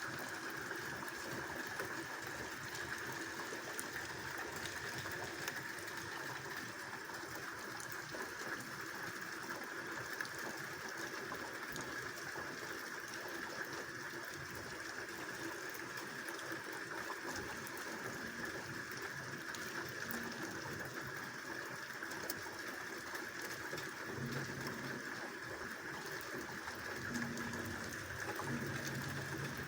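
Steady rushing water noise from light rain and runoff, with a few faint drop clicks.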